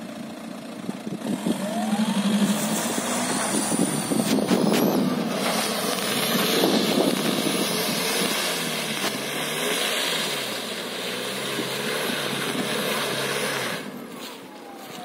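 VW Passat B6's 2.0 TDI four-cylinder diesel revving hard as the four-wheel-drive car pulls away through mud, its tyres spinning and churning the wet ground. It grows loud about a second and a half in and falls away sharply near the end.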